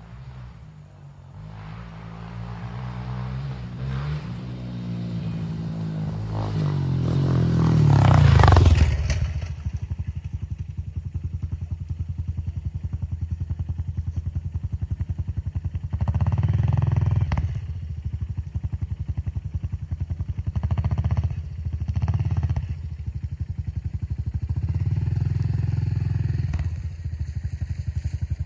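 Honda CRF125F dirt bike's single-cylinder four-stroke engine under way. It rises in pitch and loudness for about eight seconds, drops back sharply, then runs on with several short bursts of throttle.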